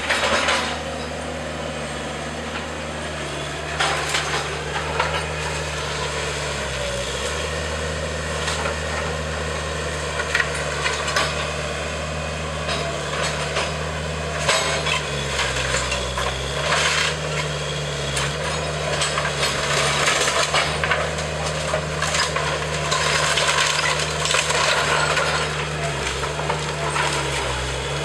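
Diesel engine of heavy demolition equipment running, its pitch dipping and rising a few times as it works under load, with repeated cracking, splintering and clattering of wood and debris as the house is torn apart.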